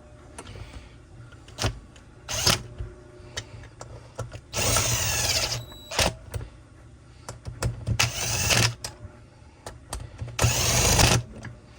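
A power driver runs the crankcase screws of a saw's split cases down in three bursts of about a second each, its pitch sliding as each screw seats, with clicks and knocks of tool handling in between. The screws are being run in before a final hand torque.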